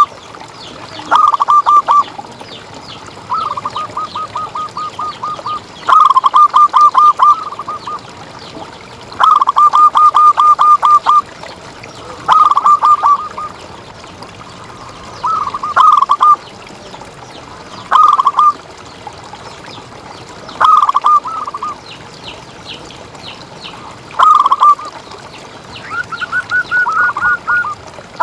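Zebra dove (perkutut) cooing: short phrases of rapid, evenly pulsed notes, repeated every two to three seconds, with a slightly higher-pitched phrase near the end.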